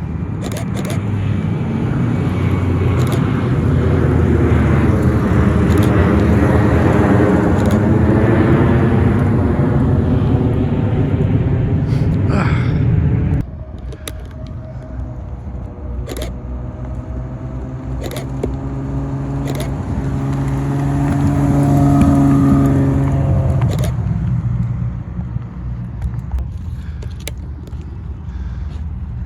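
Cars driving past with their engines running. A loud pass with a pitch that bends over the first dozen seconds cuts off abruptly about 13 seconds in. Another engine note then builds to a peak about 22 seconds in and fades away, with scattered sharp clicks throughout.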